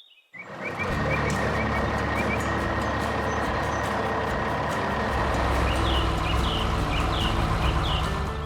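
Heavy truck engine running steadily with a thin, high steady whine, starting just after a brief silence. Birds chirp a few times about six seconds in.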